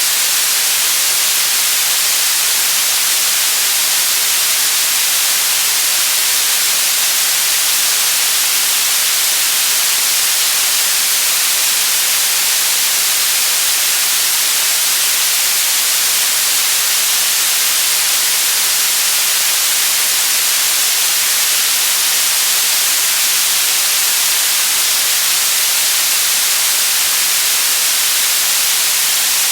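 Steady white noise: an even, unchanging hiss, brightest in the treble and thin in the bass.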